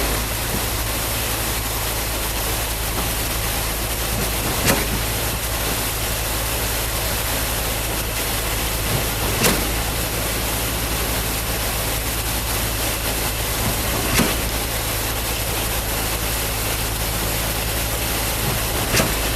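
Concrete pump truck running steadily, with a sharp clunk about every five seconds as the pump changes stroke.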